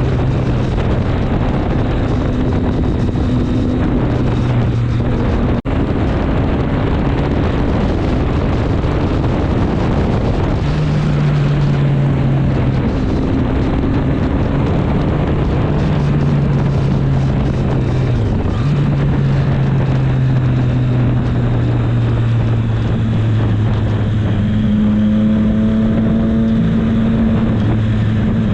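Triumph Street Triple 765 S's inline three-cylinder engine running at speed on the road, its note holding and shifting between steady revs and climbing higher near the end, under heavy wind rush on the microphone.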